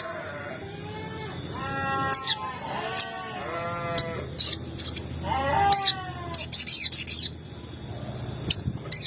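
Sogon bird calls: short, sharp, high-pitched 'cuit' chirps at irregular moments, mixed with several lower, nasal, wavering calls. This is a lure recording meant to excite sogon birds into calling.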